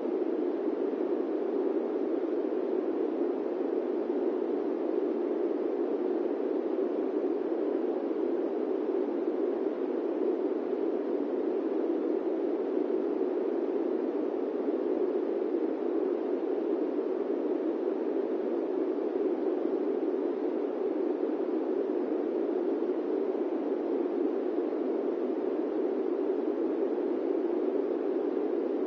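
Airplane-cabin white noise: a steady, unchanging rush with no engine tones or events, strongest in the low middle and lacking any deep rumble.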